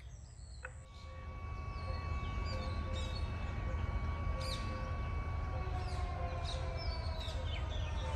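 Small birds chirping, short falling calls repeating again and again, over a steady low rumble that swells up about a second in. Faint long held tones sit behind them.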